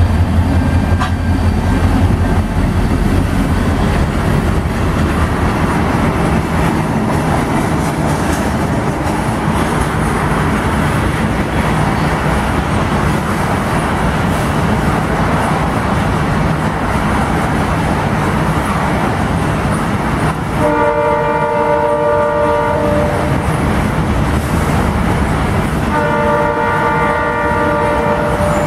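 St. Lawrence & Atlantic diesel locomotives passing close with a strong engine hum, then a long train of welded-rail flatcars rolling by with steady wheel noise. Near the end, the locomotive's air horn sounds two long blasts, each about two and a half seconds.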